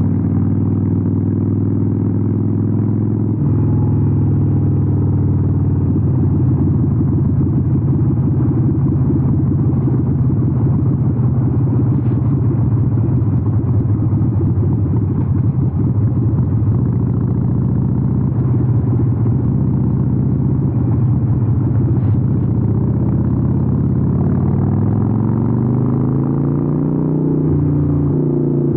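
Harley-Davidson 883N's air-cooled V-twin running through Vance & Hines aftermarket exhausts while riding, a steady fast-beating exhaust note. Near the end the pitch rises as it accelerates, then drops at a gear change.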